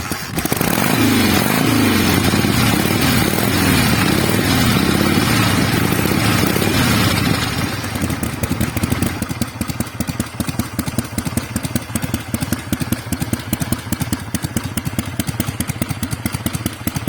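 Harley-Davidson Shovelhead V-twin engine catching and being revved up and down several times for about seven seconds, then settling into a pulsing idle.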